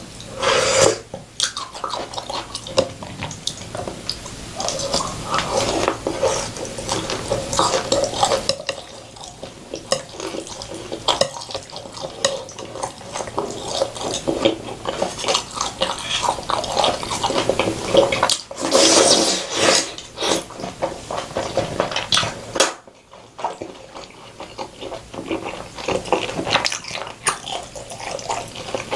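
Close-miked mukbang eating sounds: wet chewing and slurping of noodles and soup, with utensils clicking against the dishes. A louder slurp comes about two-thirds of the way in, then a brief lull.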